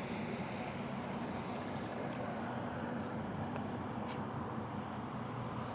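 KTM Duke 250's single-cylinder engine idling steadily while the bike stands still, heard muffled through a mic inside the helmet.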